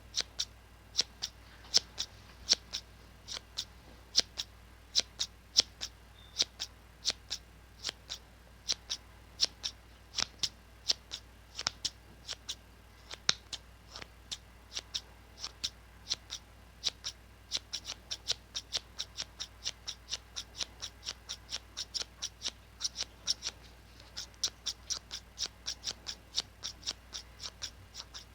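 Large scissors snipping over and over in a quick, even run of sharp snips, two or three a second, coming closer together in the last few seconds.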